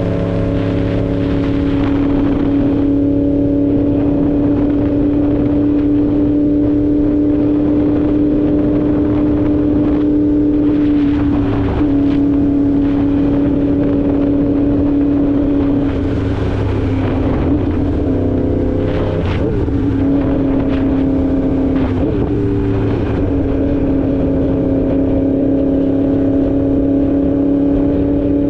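2016 Yamaha R1's crossplane inline-four engine running steadily while riding at a near-constant engine speed. Its note dips briefly and recovers a few times, around the middle and later on.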